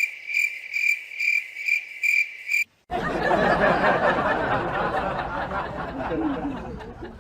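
Cricket chirping in an even rhythm of about two to three high chirps a second, cut off abruptly a little before halfway. After a short gap comes a loud, rough noise that slowly fades out.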